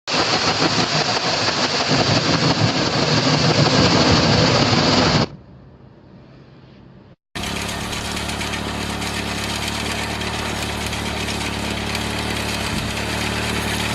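Engine of a tractor-engined motorcycle running loudly, cut off abruptly after about five seconds. After a quiet stretch and a brief gap, an engine idles steadily.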